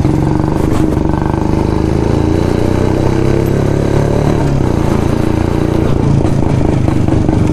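1972 Jawa 250cc single-cylinder two-stroke motorcycle engine with twin exhausts, running steadily, its pitch dipping a little in the middle and picking up again.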